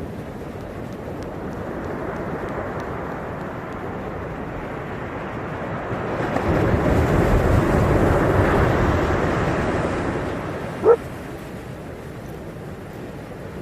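Ocean surf washing in a steady rush that swells as a wave breaks, about halfway through, then eases off. A single short dog bark comes near the end.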